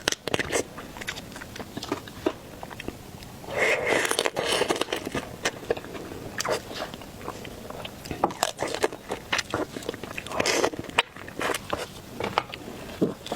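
Shellfish being bitten and chewed close to the microphone: irregular crunching and cracking, with a denser spell of crunching about four seconds in.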